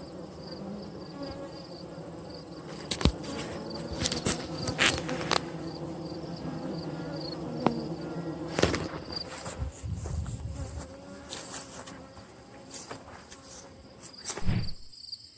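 Honeybees buzzing around a hive entrance, many wingbeats overlapping in a shifting drone, with a steady pulsing cricket chirp above it and a few sharp knocks. Near the end the bee buzz drops away, leaving the crickets.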